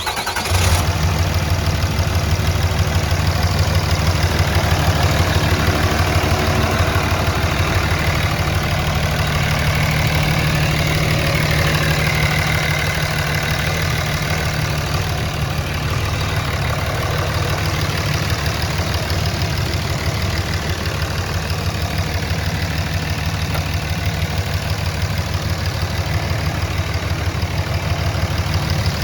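2007 Dodge Ram 3500 HD pickup's engine idling steadily, a constant low running note.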